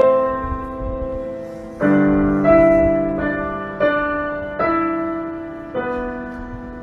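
Background piano music: slow notes and chords, each struck and left to fade, with new ones coming every second or two.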